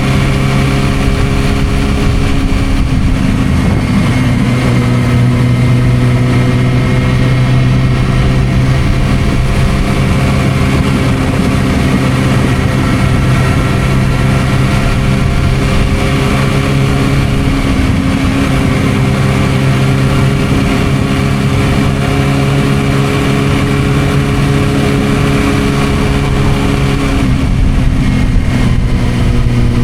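Suzuki GSR600's inline-four engine through an aftermarket Dominator exhaust, running steadily at riding speed, its pitch rising and dipping slightly as the throttle changes.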